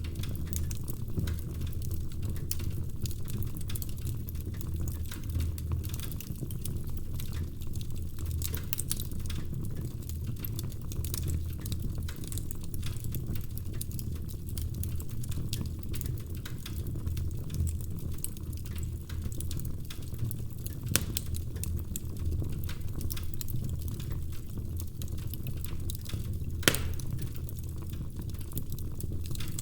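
Wood fire burning in a fireplace: a steady low rumble of the flames with constant light crackling of the logs, and two louder sharp pops, one about two-thirds through and one near the end.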